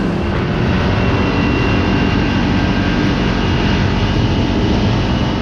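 Kawasaki Teryx KRX side-by-side driving steadily: an even engine drone with tyre and wind noise.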